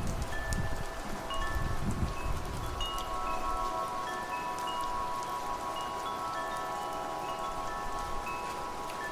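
Wind chimes ringing, several metal tones struck one after another and sustaining over each other, over a steady hiss of rain. A low rumble sits underneath for the first few seconds, then fades.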